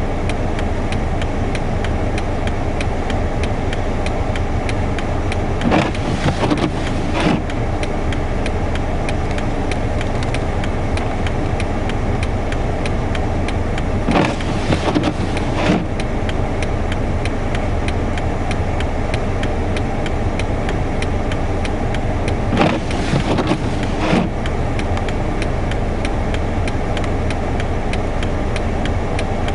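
Car engine idling, heard from inside the cabin as a steady low rumble. Three pairs of short, louder noises come about eight seconds apart.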